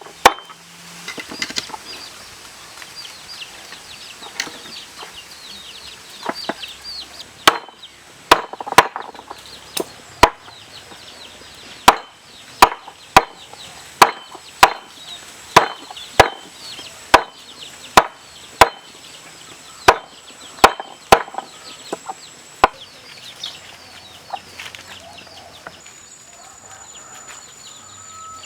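A knife chopping on a board in sharp single strokes, a few at first, then steadily about every half second to a second from about seven seconds in until near the end. Chickens call in the background throughout, with many small high chirps.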